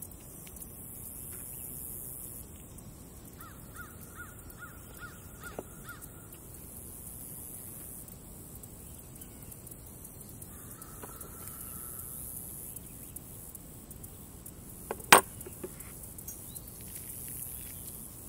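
Outdoor background with a bird calling in a quick run of short notes a few seconds in, and again more briefly about halfway through. A single sharp knock comes near the end and is the loudest sound.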